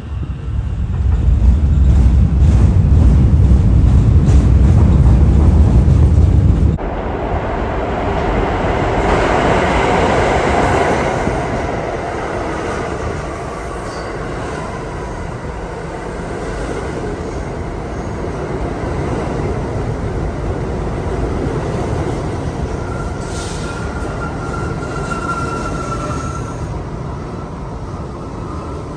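Subway train running through the tunnel: a loud low rumble that drops suddenly about seven seconds in to a quieter, steady running noise. A thin high wheel squeal comes in near the end.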